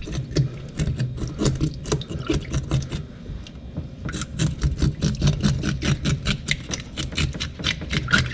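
Scales being scraped off a fish in quick, repeated strokes, about five a second, with a brief pause about three seconds in before the scraping starts again.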